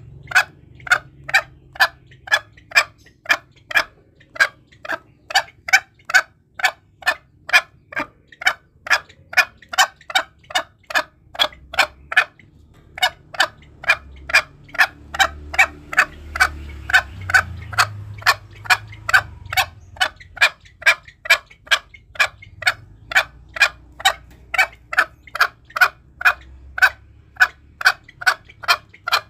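Green junglefowl calling in a fast, even series of short clucking notes, about three a second, with a short break about twelve seconds in. It is a lure call used to draw wild green junglefowl. A faint low rumble runs underneath.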